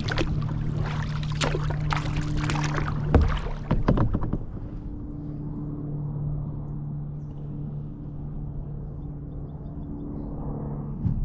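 Kayak paddle strokes splashing and dripping in the water for about four seconds, two louder splashes near the end of them, then the paddling stops. A steady low hum runs underneath throughout.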